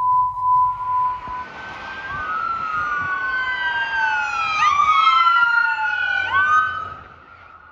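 A steady high beep tone pulsing about twice a second, then emergency vehicle sirens wailing together, several overlapping tones rising and falling slowly over traffic noise. The sirens fade out near the end.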